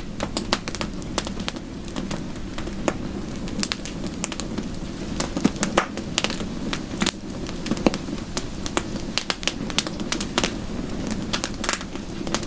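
Wood fire crackling in a fireplace: sharp, irregular pops and snaps over a steady low rush.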